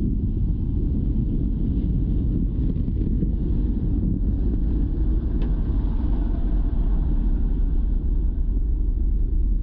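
Wind buffeting the microphone: a steady, heavy low rumble with no let-up.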